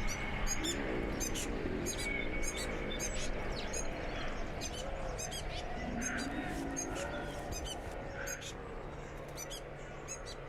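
Small birds chirping, many short high chirps in quick runs throughout, over a steady low hum.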